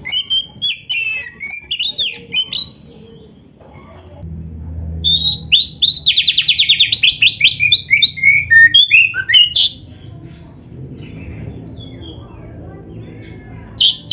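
Oriental magpie-robin (kacer) singing a loud, varied song of whistles, chirps and fast trills, the kind of 'full isian' song packed with varied phrases that is used as a training recording. It pauses briefly about three seconds in, sings hardest for the next few seconds, quietens, and starts again near the end.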